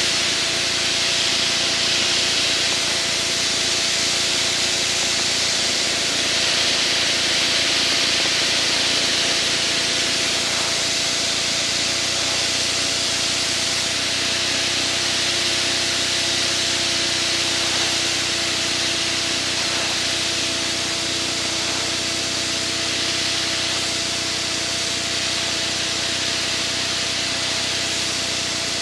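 Steady in-flight cockpit noise of a formation aerobatic aircraft: airflow hiss with a steady engine hum. A deeper hum joins about twelve seconds in.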